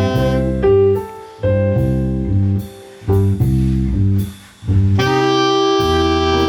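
Jazz ensemble playing live, with a saxophone over bass and drums, in short punchy phrases broken by brief pauses; about five seconds in it settles into a long held chord.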